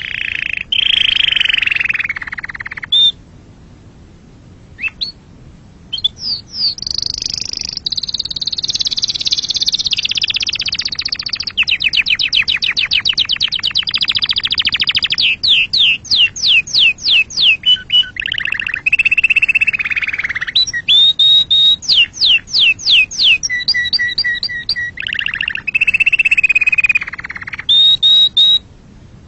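Domestic canary singing a long, varied song of fast trills, quick repeated chirps and held whistled notes, with a short quiet pause a few seconds in.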